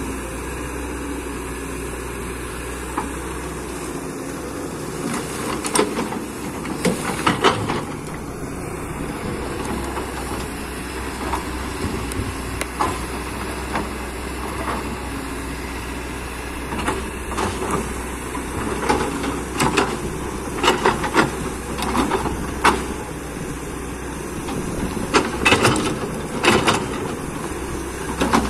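Excavator diesel engine running steadily, with several bursts of metallic clanks and knocks from the machine working.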